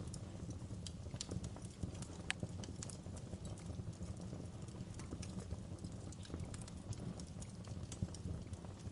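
Wood fire crackling in a fireplace: irregular sharp pops and snaps over a steady low rumble, with one louder snap a couple of seconds in.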